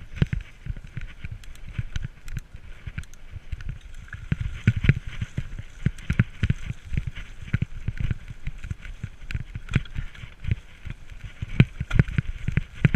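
Mountain bike being ridden over rough ground, with dense irregular knocks and rattles and steady tyre and rolling noise.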